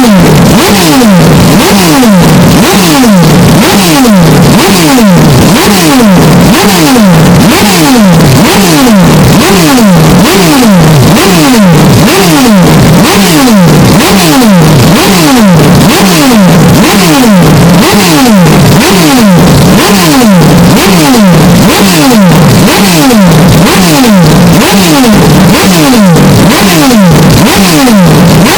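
Hyundai Elantra N's turbocharged four-cylinder engine, amplified until it distorts, with pitch repeatedly falling about once a second as if coming off revs or through downshifts.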